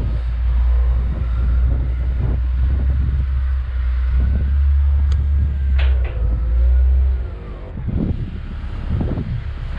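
Motor vehicle running with a steady, loud low rumble, with a few knocks and rattles scattered through it. The rumble eases briefly about three-quarters of the way through.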